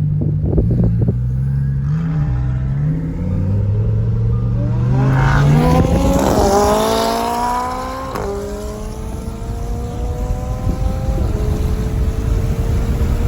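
Sports car engine pulling hard under full acceleration. After a few low-rev seconds the revs climb steeply, drop sharply at an upshift about eight seconds in and again about three seconds later, then climb again each time.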